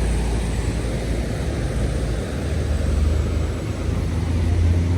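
Heavy diesel vehicle running on the road, a low engine rumble with road noise. It grows louder and steadier near the end.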